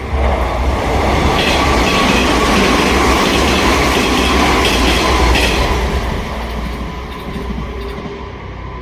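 A Sanyo Electric Railway train runs through the station without stopping. Its rumble comes in suddenly and loud, with regular clacks of the wheels over the rail joints, then fades after about six seconds.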